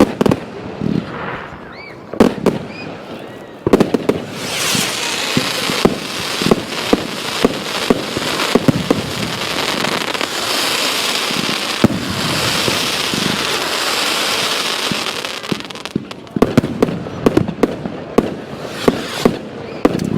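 Fireworks going off: sharp bangs and a couple of short whistles in the first few seconds, then a long dense crackling fizz, then a rapid string of bangs near the end.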